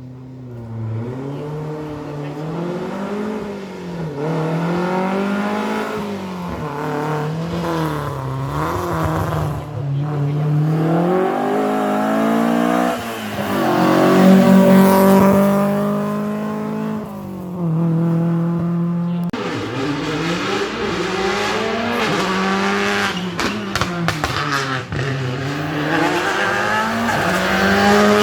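Rally car engine revved hard, its pitch repeatedly climbing through the gears and dropping off for braking and corners, loudest about halfway through as it comes closest. About two-thirds of the way in the sound drops and restarts abruptly, and the revving runs on.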